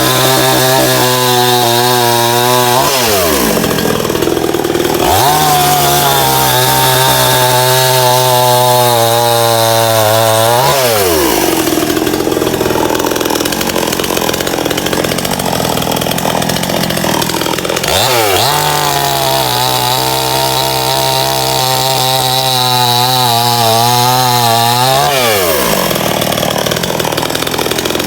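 Small Stihl chainsaw cutting a fallen palm trunk, held at high revs through long cuts and dropping back between them: three stretches at full throttle, the engine falling off about three seconds in, around the middle and near the end, and picking up again in between.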